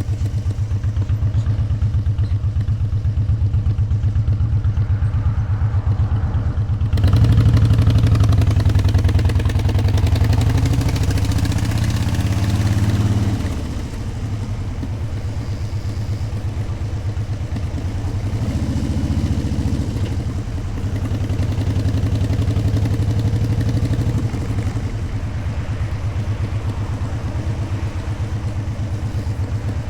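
Motorcycle engine running under way. It pulls harder with rising pitch about a quarter of the way in, eases off just before halfway, and settles into a steadier run.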